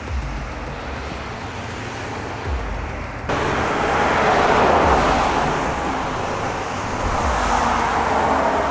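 Road traffic noise, cars going by, jumping up suddenly about a third of the way in, loudest around the middle, then easing and swelling again near the end.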